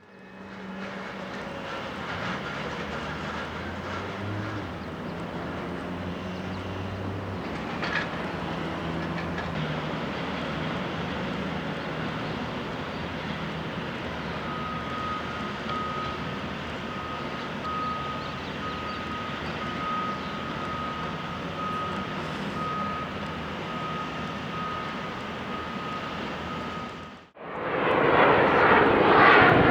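Steady background rumble with a low engine hum, joined about halfway by a repeating beep, a little under once a second. After a brief cut near the end, the loud noise of a jet aircraft passing close begins, sweeping in pitch.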